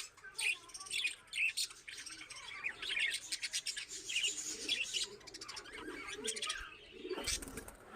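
Small birds chirping quickly and repeatedly in the background, fairly quiet.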